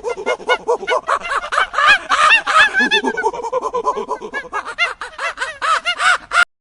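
A rapid run of short, chattering animal calls, several a second and overlapping, that cuts off abruptly near the end.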